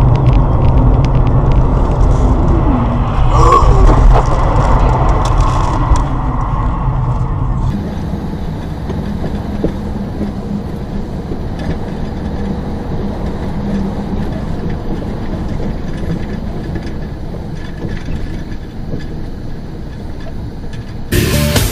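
Steady road and engine rumble inside a moving car, recorded by a dashboard camera. About eight seconds in the noise changes abruptly to a quieter, different rumble, and music starts right at the end.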